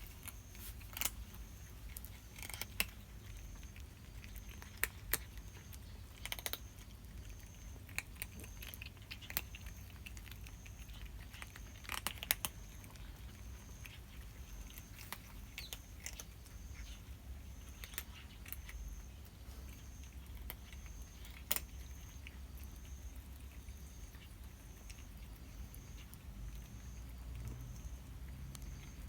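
Cats crunching dry cat food: irregular sharp crunches, a few louder bites standing out among fainter ones.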